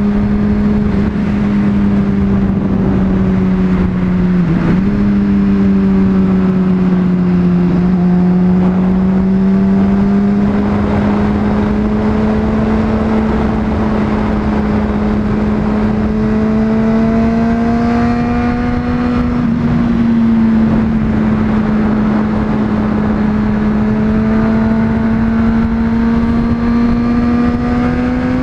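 Honda CBR600RR inline-four engine running at steady cruising revs under way, its pitch climbing slowly, with brief dips about four and a half seconds in and again around nineteen seconds. Wind rushes over the microphone throughout.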